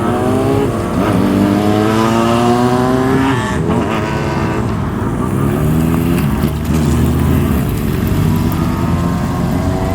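Motorcycle exhaust as a bike accelerates away. The engine note climbs steadily, drops at a gear change about three and a half seconds in, and climbs again, with more engine sound mixed in later.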